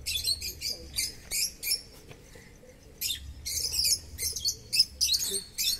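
Small birds chirping and squawking in quick high-pitched bursts, easing off for about a second around two seconds in and then picking up again.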